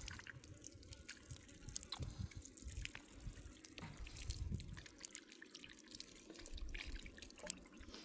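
Water dripping and trickling, with faint, irregular small ticks and splashes.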